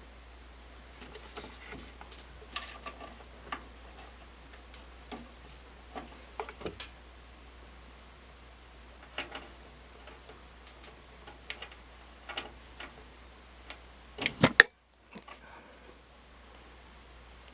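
Irregular light clicks and taps of screws and parts being handled while a washing machine is put back together, with a quick run of louder knocks near the end, after which the sound cuts out for a moment.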